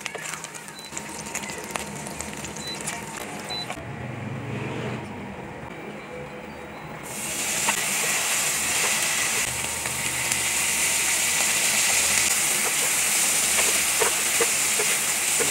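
Chopped bacon, then sliced ham, sizzling as they fry in a nonstick pan. About seven seconds in, the sizzle turns suddenly louder and stays strong.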